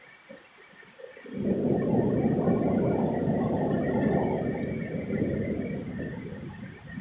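Squally wind gusting against the microphone in a storm: a loud, low rush that sets in about a second in, holds for several seconds and eases near the end before another gust starts.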